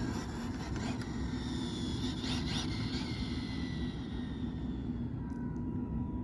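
Brushless electric motor and drivetrain of an Arrma Felony RC car whining at high speed. The high whine slowly falls in pitch over several seconds above a steady low background noise.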